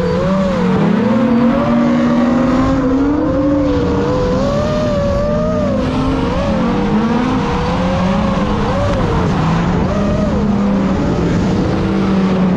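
Drift car's engine on and off the throttle through a drift run, its pitch swinging up and down continuously, over steady tyre and road noise.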